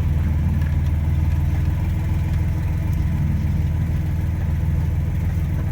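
1992 Dodge D150 pickup's engine idling steadily, a low, even rumble heard from inside the cab.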